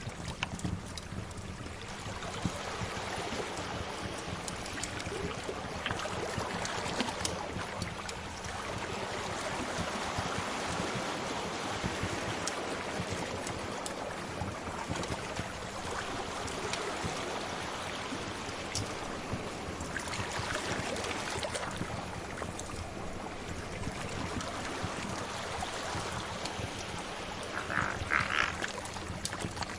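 Sea waves washing steadily, swelling and easing, with a wood fire crackling in scattered small pops throughout. A short higher-pitched sound comes near the end.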